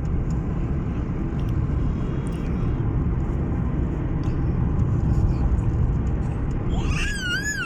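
Steady low road rumble inside a moving car. Near the end, a young child gives a short high squeal that rises and falls.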